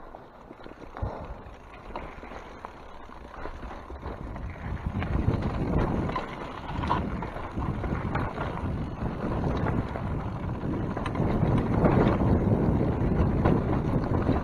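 Mountain bike rolling downhill, with wind buffeting the microphone and the rumble and rattle of tyres and bike. It is quiet at first and grows louder from about four seconds in as speed builds, with scattered clicks over it.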